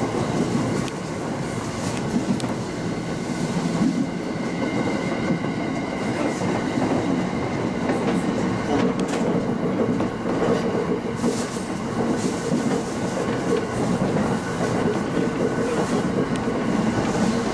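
Local train running along the track, heard on board: a steady rumble of wheels on rail with the clickety-clack of the wheels over rail joints. A faint high steady tone comes in for a few seconds a few seconds in.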